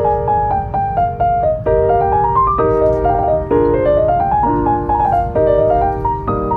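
Background piano music with quick runs of notes rising and falling over chords, laid over a steady low rumble.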